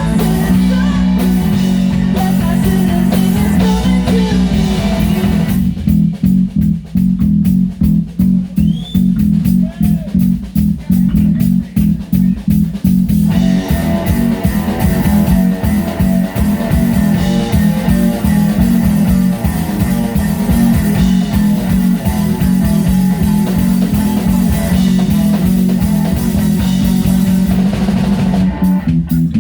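A live rock band playing an instrumental passage with electric guitar, bass guitar and drum kit. A few seconds in, it drops to a sparser stretch of mostly drums and bass for about eight seconds, then the full band comes back in.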